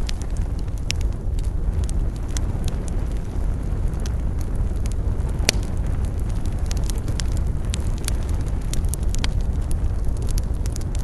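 Campfire burning, crackling with scattered sharp pops over a steady low rumble, one louder pop about halfway through.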